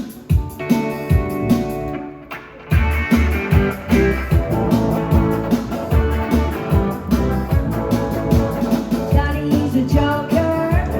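A live rock and roll band playing: electric guitar, bass and drums. A few sharp accented hits in the first two seconds give way to a steady, driving beat from about three seconds in.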